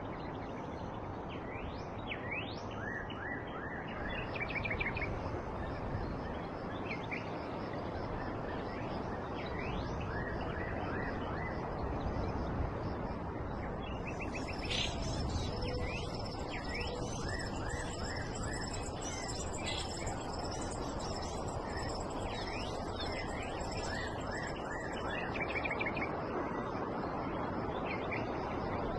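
Birds chirping and calling over a steady background hiss of outdoor ambience. About halfway through, a high, rapidly pulsing trill joins in and continues.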